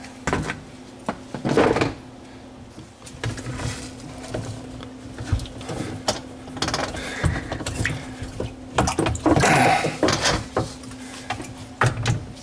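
Scattered clicks, knocks and scrapes of a part being unscrewed and handled, over a steady low hum.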